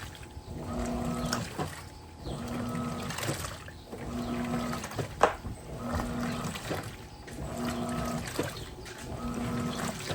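Electrolux 15 kg top-load washing machine agitating a load: the motor hums in short strokes about every second and a half as the agitator swings back and forth, with water and clothes swishing between strokes. A sharp click about five seconds in.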